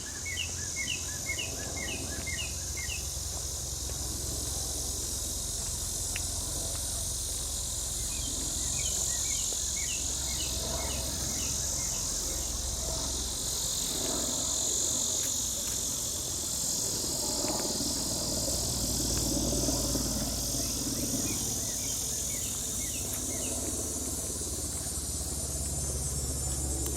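Steady high-pitched drone of summer insects, with a bird singing short repeated notes in three bouts and a low rumble of distant traffic underneath.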